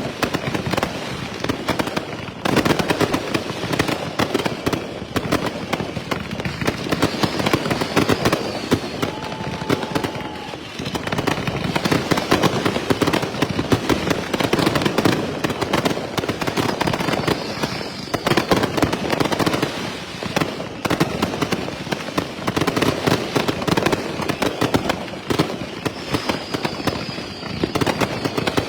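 Dense, continuous barrage of fireworks: rapid overlapping shots and bangs with crackle, never letting up, and a few short falling whistles.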